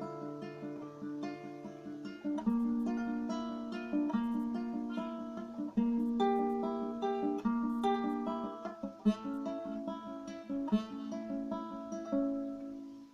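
Acoustic guitar playing a song's introduction: a run of plucked notes and chords over a low bass note held for the first couple of seconds, the last chord ringing out and fading near the end.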